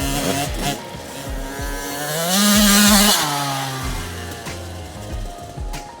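Husqvarna TC50 50cc two-stroke motocross bike engine revving. Its pitch climbs to a loud, high peak about two and a half seconds in, then falls back. Background music with a steady beat plays underneath.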